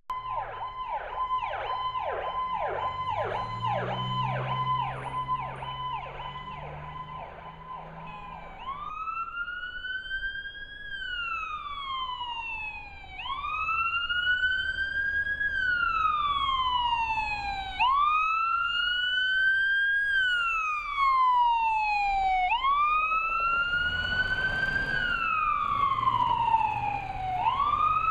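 Emergency vehicle siren in a fast yelp for about the first eight seconds, then switching to a slow wail that rises and falls about every four and a half seconds. A vehicle engine rumbles under it at times.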